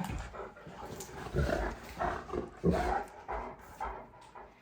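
Great Danes making short, repeated vocal sounds during rough play, about one every half second, with low thuds mixed in.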